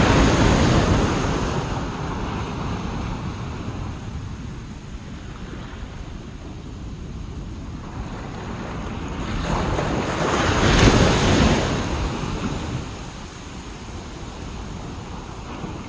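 Ocean surf washing onto a beach in the wind: one wave breaks at the start and fades within about two seconds, and another builds about nine seconds in, peaks, and falls away. Wind rumbles on the microphone throughout.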